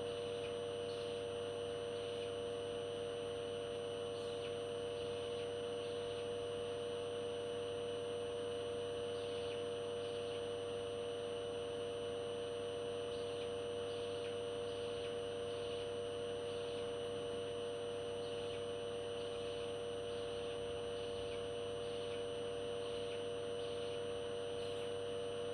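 A steady, unchanging electronic hum made of several held tones, the strongest mid-pitched. No parrot calls stand out.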